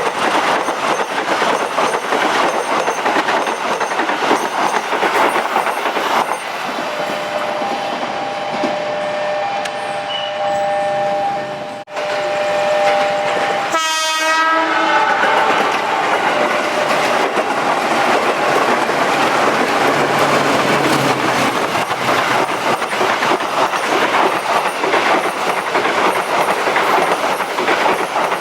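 Trains passing close by, with a continuous rumble and clattering wheels. A two-tone train horn is held for about five seconds starting about seven seconds in. After a sudden break near the middle, another horn blast sounds as a train goes by.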